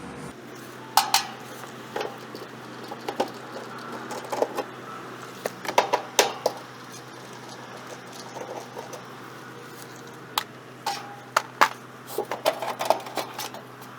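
Scattered light metallic clinks and clicks of tools and metal parts being handled, in clusters, over the steady low hum of the running air-handler blower.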